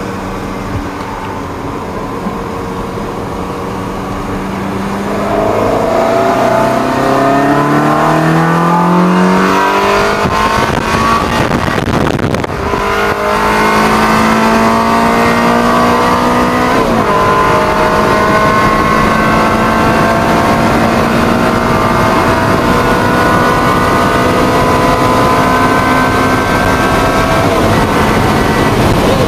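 Ferrari 360 Spider's 3.6-litre V8 engine under way. It runs steadily, then rises in pitch as the car accelerates. About twelve seconds in the pitch falls back at a gear change, then it climbs again, dips briefly near seventeen seconds and settles into a steady cruise.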